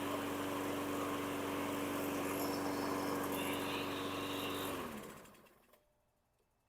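Husqvarna LC221A walk-behind mower engine running at a steady speed, then shutting off almost five seconds in, its pitch sagging as it winds down to silence.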